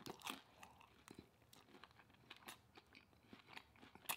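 Faint close-up chewing: a person eating, with soft crunchy clicks scattered through and one sharper crunch near the end.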